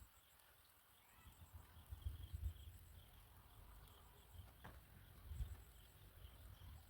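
Faint outdoor background: a low rumble that swells about two and five seconds in, under faint, evenly repeating high-pitched chirps.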